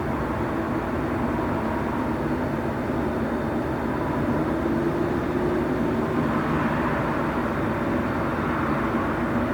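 Train station ambience: a steady low rumble and hum of trains and station machinery, with faint steady tones and no distinct events.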